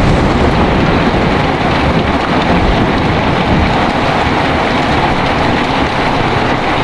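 Heavy, steady rain with a low rumble of thunder, which dies away over the first couple of seconds.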